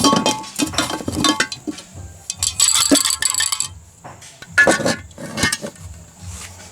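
Small metal parts clinking and clattering as they are handled, with a dense rattling run about two and a half seconds in and a few heavier knocks past the middle.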